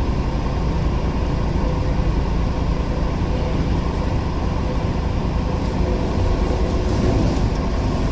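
Steady low rumble and rushing of an automatic car wash heard from inside the car: the wash equipment and water working on the car's body.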